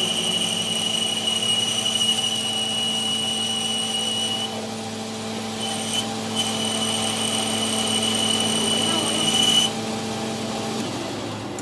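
A workshop machine running with a steady high-pitched whine over a lower hum; it stops about four seconds in, comes back briefly, then runs again and cuts off near the end.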